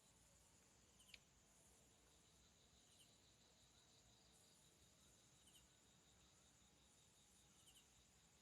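Near silence: a faint outdoor background with a steady high insect trill and a few short high chirps, and one brief click about a second in.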